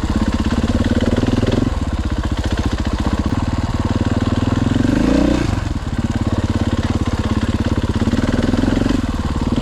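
Husqvarna FE 501 single-cylinder four-stroke dirt bike engine running at low revs, its firing pulses steady, with a brief rise and fall in revs about five seconds in.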